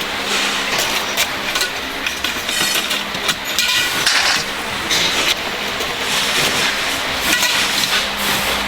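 Workshop noise: metal parts clinking and knocking irregularly over a steady low machine hum.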